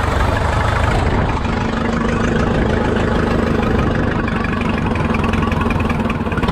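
The engine of a 1970-ish Case 580 Construction King backhoe running steadily at idle, an even, rapid firing beat with a steady hum.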